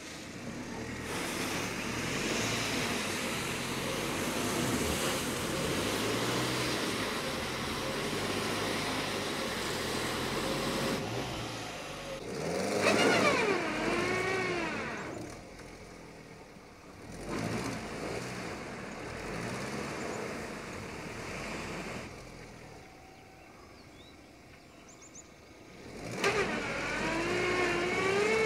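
Opel Astra's 1.6 petrol four-cylinder engine revving as the car labours through deep mud ruts after briefly bogging down, its pitch surging up and falling back about halfway through and again near the end.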